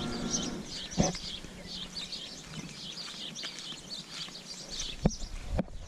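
Small birds chirping continuously outdoors, with a few sharp knocks: one about a second in and two more near the end.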